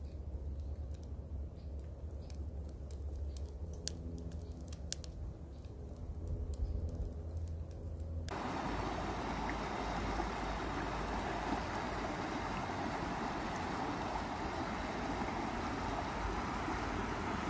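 Low rumble of wind buffeting the microphone, with a few faint clicks. About eight seconds in it cuts abruptly to a steady rush of flowing floodwater.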